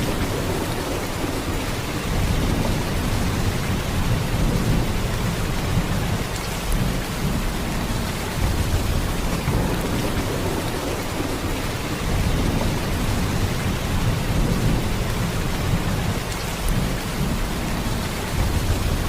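Heavy rain in a steady downpour, a dense even hiss with a deep low rumble underneath that swells and eases slightly.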